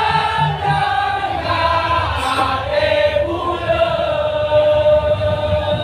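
A group of voices chanting together in long held notes over low crowd noise.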